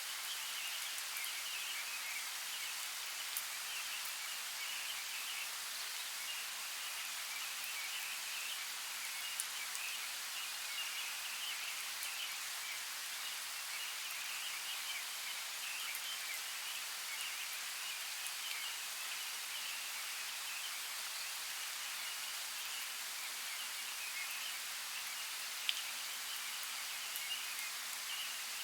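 Steady rain falling, an even hiss with a few sharper drop ticks scattered through, one a few seconds in and a couple near the end.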